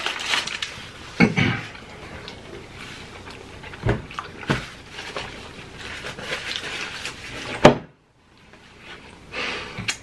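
Close-miked chewing of people eating, with a few sharp knocks or clicks; the loudest knock comes just before the sound drops out briefly near the end.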